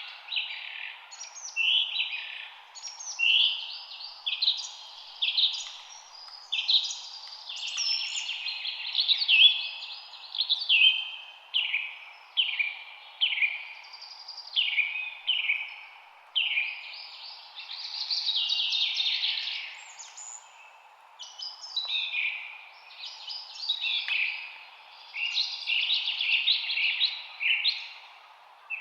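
Birds singing: a near-continuous run of short, varied high-pitched phrases, one after another, over a steady background rush.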